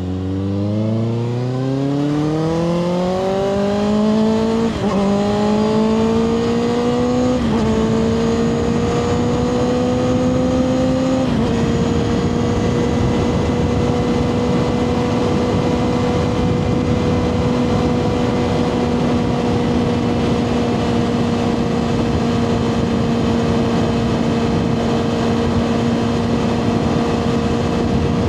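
2024 Kawasaki ZX6R's inline-four engine through a Two Brothers slip-on exhaust, pulling hard with rising pitch and shifting up three times within the first dozen seconds, then holding a steady cruise with wind rushing past.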